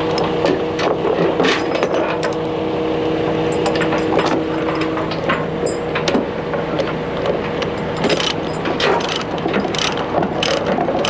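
A tow truck's engine running steadily, with scattered clanks and knocks of metal rigging being handled around it.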